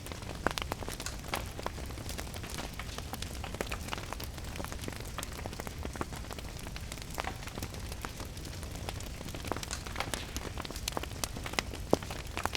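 Wood fire crackling with frequent sharp pops and snaps, over a steady hiss of rain and a low rumble.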